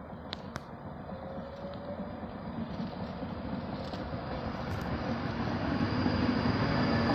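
Class 390 Pendolino electric train approaching through the station, its rumble and hum growing steadily louder.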